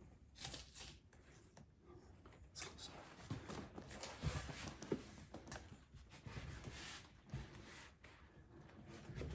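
Leather saddle seat being rubbed and worked down by hand over a saddle tree: faint, irregular rubbing and rustling with a few sharper taps around the middle.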